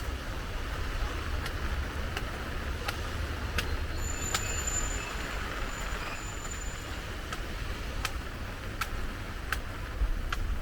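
Steady rain hiss mixed with the low rumble of traffic on wet streets, with sharp regular footsteps about every 0.7 seconds. A thin high squeal sounds for about three seconds near the middle.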